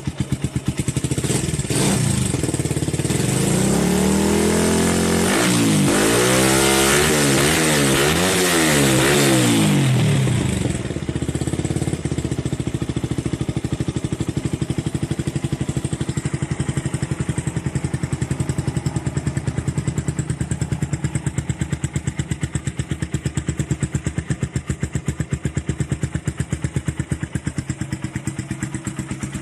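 Suzuki Satria FU 150 single-cylinder four-stroke engine breathing through an R9 Assen aftermarket exhaust with the dB killer removed: revved repeatedly for about ten seconds, pitch rising and falling several times, then dropping back to a steady idle.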